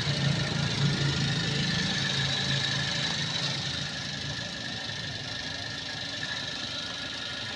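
Toyota Avanza G's 1.3-litre VVT-i four-cylinder engine idling steadily, a smooth, even hum that gets a little quieter about halfway through.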